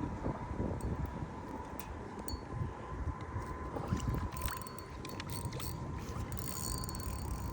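Wind rumbling on a chest-mounted microphone, with a thin steady high tone and scattered light clicks over it.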